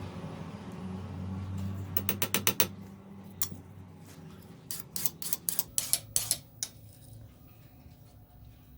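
Metalworking on a knife blade: two quick runs of sharp metallic taps and clicks, the first about two seconds in, the second about five seconds in, over a low hum that fades out in the first few seconds.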